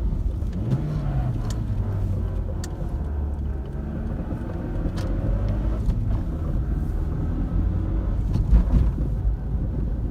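Suzuki Swift 1.3-litre car running, its engine pitch rising and falling a few times as it speeds up and eases off, with a few light clicks.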